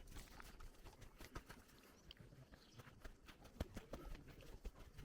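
Near silence with faint, irregular clicks and knocks scattered throughout.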